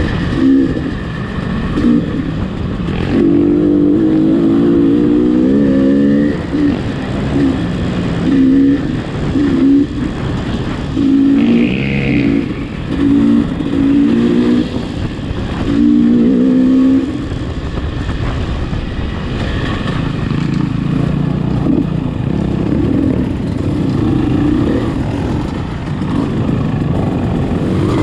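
A vehicle engine revving in repeated short bursts, its pitch rising and falling, then settling to a steadier, lower running sound in the second half.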